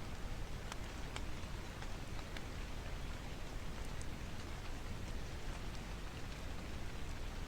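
Steady rain noise with a rushing low rumble, dotted with scattered sharp crackles and pops from a wood fire.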